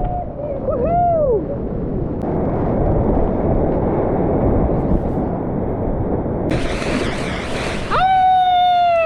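Rushing river water with wind buffeting the microphone, turning to a brighter, hissing splash about six and a half seconds in. A person's voice calls out twice: a short rising-and-falling call about a second in, and a longer held call near the end.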